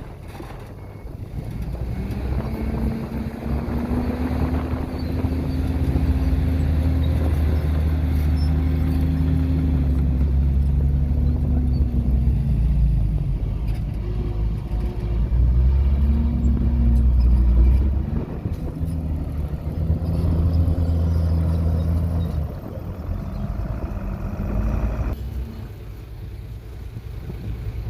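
Diesel engine of a Komatsu D51PX bulldozer revving up and easing off several times over a deep rumble. The engine note rises about 2 seconds in, falls around 13 seconds, rises and falls again near 16 to 17 seconds, and drops back about 22 seconds in.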